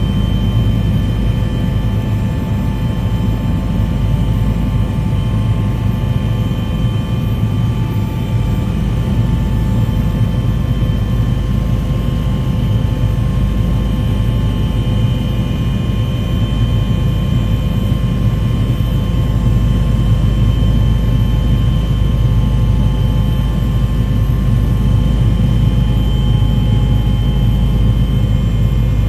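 Steady aircraft engine noise: a continuous low drone with a few faint steady high tones over it.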